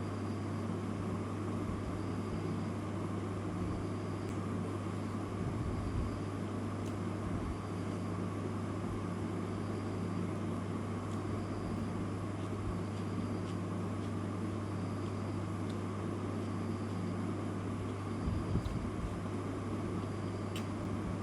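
Steady low hum over an even background hiss, with a faint high chirp repeating about once a second.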